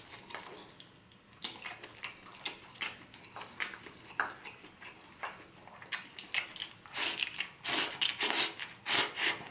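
Close-miked eating sounds: a person chewing seafood paella with short, sharp lip smacks and clicks. The smacks come thicker and louder in the last three seconds, as a piece of shellfish is sucked at the lips.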